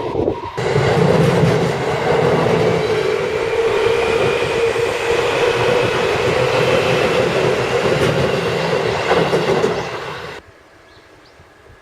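Electric commuter train passing at speed, with steady running hum and wheel noise on the rails; it cuts off suddenly near the end.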